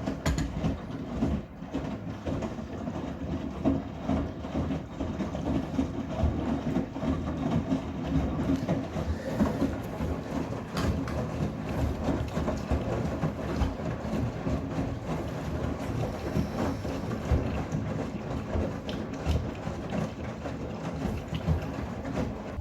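Miele laundry machine's drum turning a load of bath towels: a steady rumble with frequent irregular thumps as the towels tumble.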